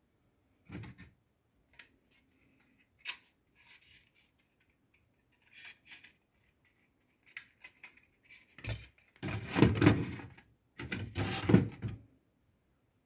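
Scattered clicks and knocks of objects being handled, then two louder stretches of clattering and rubbing, each lasting about a second and a half, near the end.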